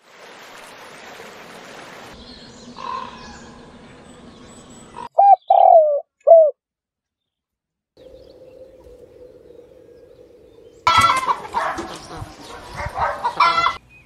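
Bird calls from several clips cut together. After a steady rushing haze, a few loud cooing notes come about five seconds in. A long low steady tone follows, and then a loud run of harsh calls near the end.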